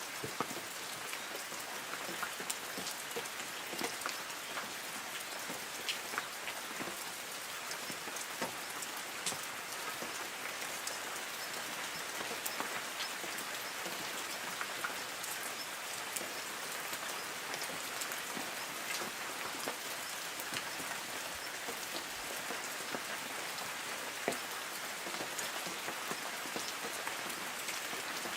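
Light rain falling on forest trees: a steady hiss of rain with many separate drops pattering on leaves.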